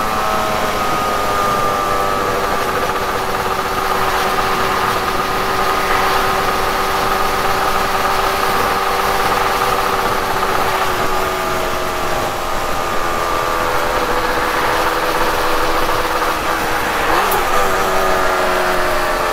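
Yamaha R1-Z's two-stroke parallel-twin engine running at a steady cruise under the rider, its note sinking slowly in pitch, with a steady rush of wind and road noise.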